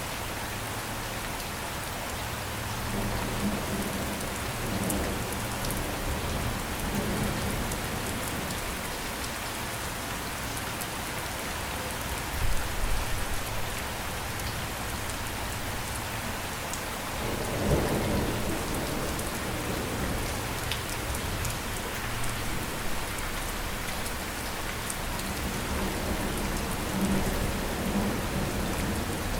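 Steady rain falling, with low rumbles of thunder rolling in several times, the strongest a little past halfway.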